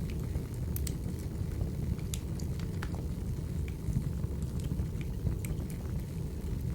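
Wood fire burning in a fireplace: a steady low rumble with irregular sharp crackles and pops from the burning logs, a dozen or so scattered through.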